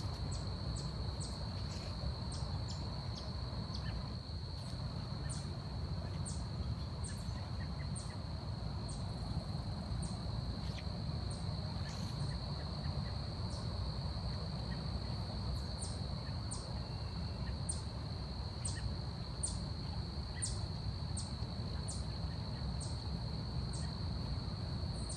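Forest insects: a steady high-pitched insect drone, with short high chirps repeating over it, quick for the first few seconds and then about one a second, above a low rumbling background.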